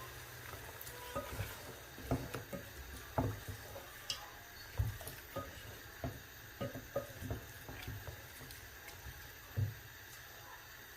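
Kitchen cooking sounds: scattered light knocks and clinks of utensils against pots and dishes, over a low steady hum.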